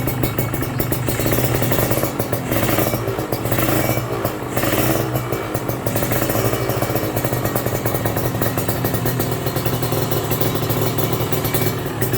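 Kawasaki Ninja SS two-stroke single running through a KJR Racing aftermarket exhaust. It runs steadily with quick throttle blips between about 2.5 and 5 seconds in, then settles back to a steady run.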